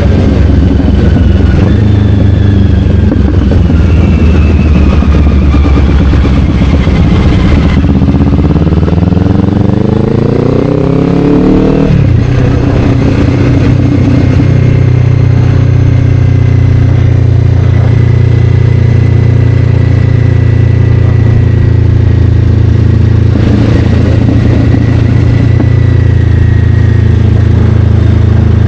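Kawasaki Ninja 500's parallel-twin engine through an Akrapovic slip-on exhaust while riding. It holds steady revs at first. About eight seconds in it revs up under acceleration for a few seconds, drops sharply at an upshift, then runs at steady cruising revs.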